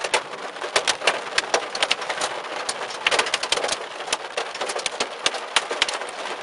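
Pea-size hail pelting a car's roof and windshield, heard from inside the car: a dense, irregular patter of sharp ticks over a steady rain hiss.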